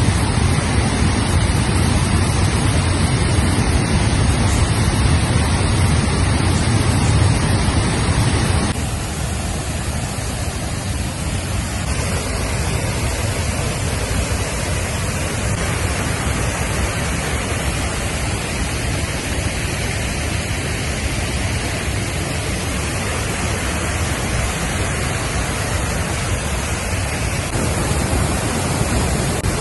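Water pouring over the 8.6 m dam of the New Athos waterfall, a steady rushing noise. About nine seconds in it suddenly gets quieter and thinner in the low end, then runs on steadily.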